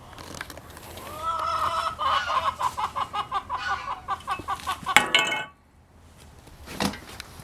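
A rooster calling: a drawn-out note about a second in that breaks into fast, rhythmic clucking, about five pulses a second for some three seconds, then stops abruptly. A short knock follows near the end.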